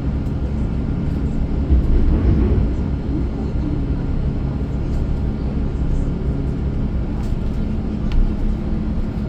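City transit bus running, heard from inside the cabin: a steady low drone and road rumble, swelling louder about two seconds in, with a few faint rattles.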